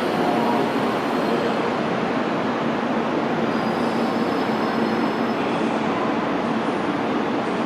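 Freight train hauled by an ED76 electric locomotive rolling along the track: a steady rumble of wheels and rail noise, with a faint high wheel squeal.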